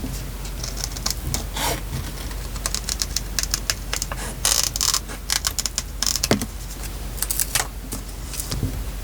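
Irregular clicks, taps and short rustles of paper, stickers and small tools being handled while decorating a journal, with the loudest rustles about halfway through and again a few seconds later. A faint steady hum lies underneath.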